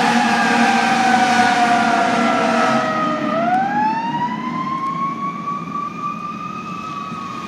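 Fire engine siren wailing, its pitch sliding down for about three seconds, then climbing back up and holding high while growing fainter.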